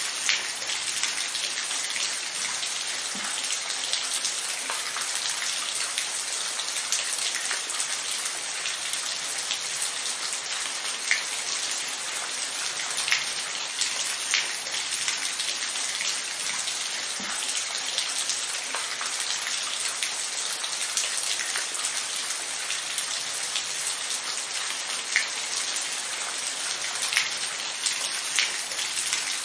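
Steady rain falling, a dense hiss with many distinct drops ticking on a surface.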